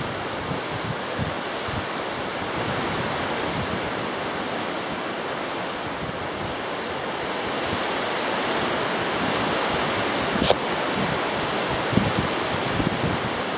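Strong gusty wind buffeting the microphone, an even rushing noise with low rumbling gusts, and a sharp click about ten and a half seconds in.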